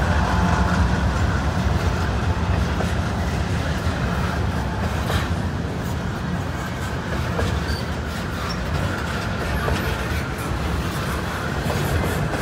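Train rolling past: a steady rumble of wheels on the rails.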